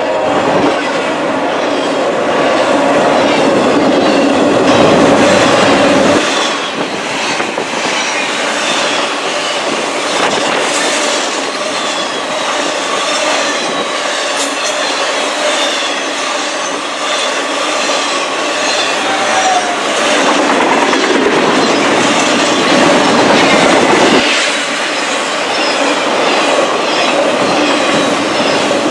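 Intermodal freight train's trailer-laden flatcars rolling past, a steady clatter of wheels over the rails with some thin high-pitched wheel squeal. The low rumble drops away about six seconds in and comes back near the end.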